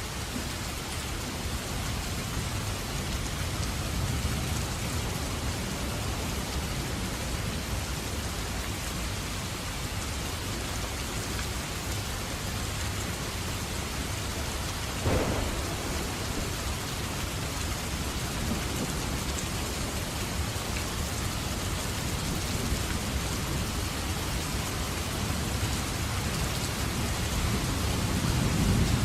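Steady rain falling during a thunderstorm, with low rumbling underneath. A sudden sharp crack comes about halfway through, and a rumble of thunder swells near the end.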